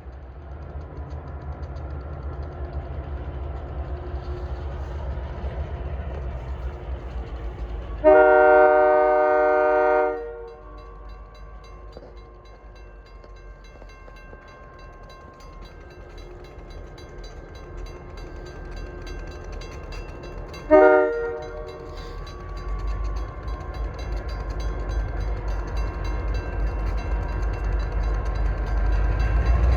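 Diesel freight locomotive sounding its horn: one long blast of about two seconds, then a short blast some thirteen seconds later, over the low rumble of the engine, which grows louder near the end as the train comes closer.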